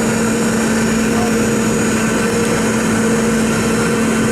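Steady in-cabin drone of a Boeing 717's rear-mounted Rolls-Royce BR715 turbofans and the airflow around the fuselage, heard from a seat near the tail: an even rushing noise with a constant low hum.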